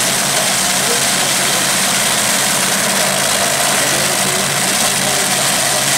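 Modified pulling tractor's engine idling steadily, an even, unchanging run with no revving.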